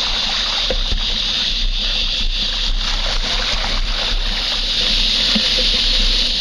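Mountain bike tyres pushing through standing water about six inches deep, a steady splashing and swishing.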